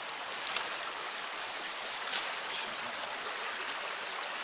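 Shallow river running steadily, an even rushing of water. Two brief clicks stand out, one about half a second in and one about two seconds in.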